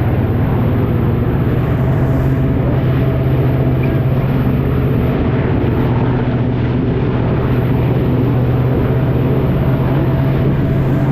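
Jet ski engine running at a steady, held speed, a constant drone over rushing noise.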